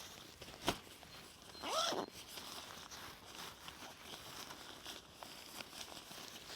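Light rustling and small clicks of someone moving about, with a sharp knock about a second in and a short pitched sound that rises and falls about two seconds in.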